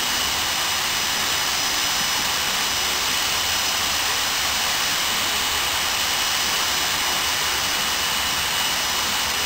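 Jet dragster's turbojet engine running steadily, a rushing roar with a constant high whine over it and no change in pitch or level.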